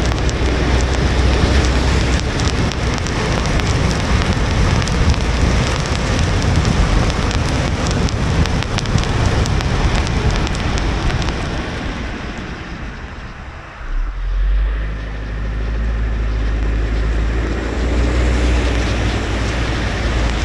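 Car driving on a wet road in the rain: steady tyre spray and road noise with rain on the car. The noise dies down briefly a little over halfway through, then a low rumble comes back.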